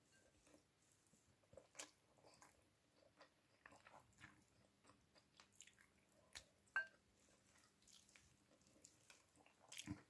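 Faint chewing and mouth sounds of someone eating rice and stewed chicken by hand, with scattered soft clicks and smacks. A sharper click comes about two-thirds of the way through, and a cluster of mouth sounds comes near the end as a handful of rice goes into the mouth.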